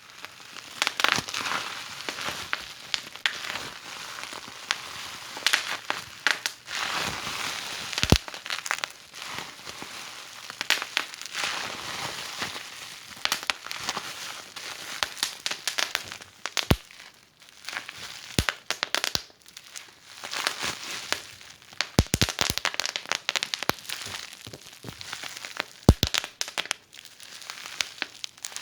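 Wood fire crackling in a fireplace: a steady hiss with irregular sharp pops and snaps, a few of them much louder than the rest.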